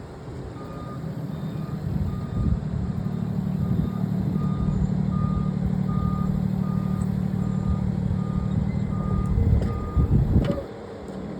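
A vehicle's reversing alarm beeping about twice a second over its running engine. The engine hum stops near the end, shortly after the beeping ends.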